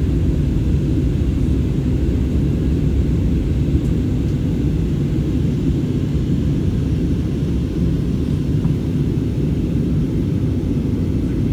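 Airliner cabin noise during the descent: a steady, low rumble of engines and airflow heard from inside the passenger cabin.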